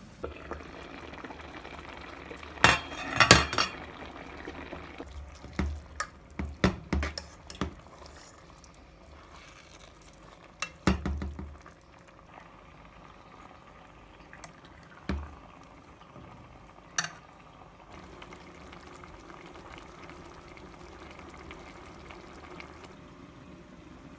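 A metal spoon knocking and scraping against a cooking pan while chicken keema curry is stirred, in clusters of sharp clatters over a low steady sizzle of the curry cooking.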